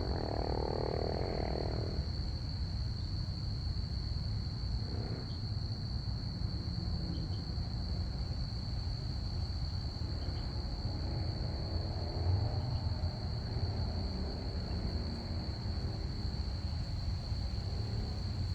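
Crickets chirping in a steady, unbroken high trill over a constant low rumble, with a short drone in the first couple of seconds.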